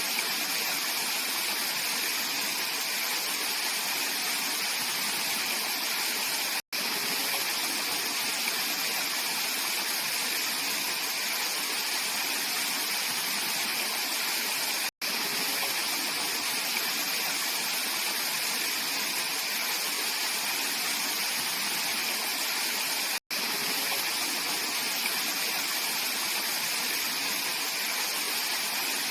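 Mountain valley stream flowing: a steady rushing wash of water. It cuts out for a split second three times, about eight seconds apart.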